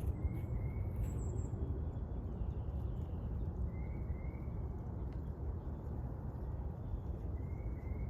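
A bird calling a short double chirp three times, about every three and a half seconds, over a steady low rumble.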